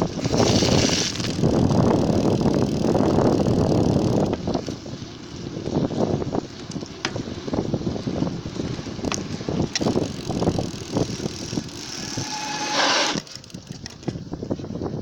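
Bicycle riding noise heard from close to the back wheel: the tyre rolling over an uneven surface with a steady rumble, studded with small rattles and knocks. Brief rushes of wind hiss come near the start and again near the end. About 13 seconds in, the rumble drops and turns quieter.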